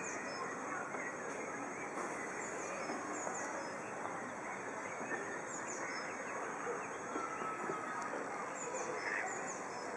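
Steady background hiss with a small bird chirping over it again and again in short, high notes.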